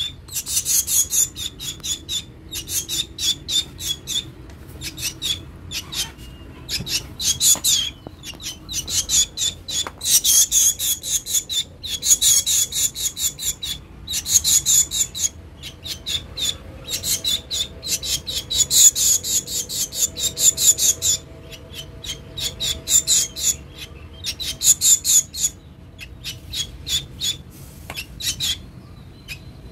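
Black bird giving rapid, harsh rasping calls, about eight a second, in runs of a second or two with short pauses between them, the way a hungry bird begs for food.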